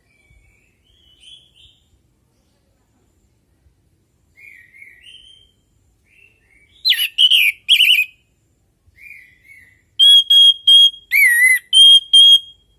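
Orange-headed thrush singing: soft, quiet twittering at first, then two loud phrases about seven seconds in, and near the end a quick series of loud, clear whistles on one steady pitch.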